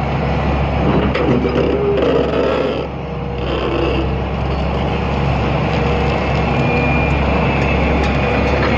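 Hitachi ZX200 excavator's diesel engine running steadily under load with a steady whine, as it loads a truck; a noisier stretch of rattling comes between about one and three and a half seconds in.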